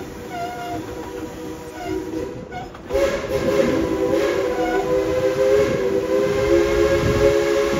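Steam locomotive's chime whistle blowing a long, steady chord of several pitches, softer at first and loud again about three seconds in, over the low rumble of the train running.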